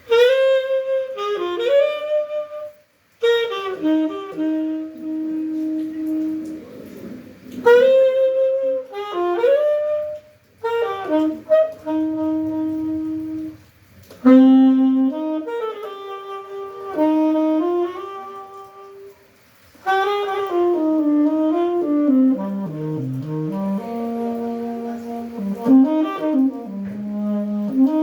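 Saxophone playing a slow melody, one note line with many gliding and bent notes, in phrases broken by short pauses for breath, the lowest and longest phrase near the end.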